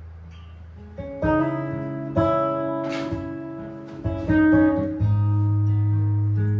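Improvised jazz guitar: a low note fades out, then chords are struck about a second in, again near two seconds and four seconds, each left to ring, and a deep bass note is held near the end.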